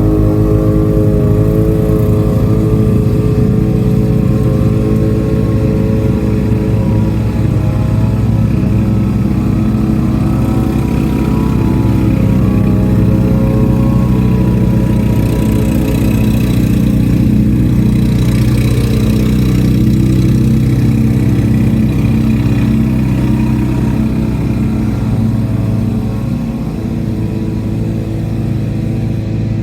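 Lawn-Boy 8073 push mower's two-stroke engine running steadily while mowing, its pitch wavering slightly as it takes the load.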